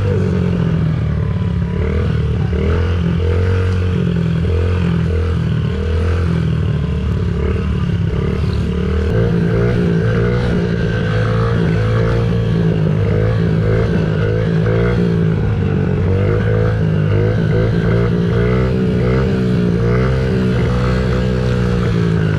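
Dirt bike engine running under riding, its revs rising and falling over and over as the throttle is worked.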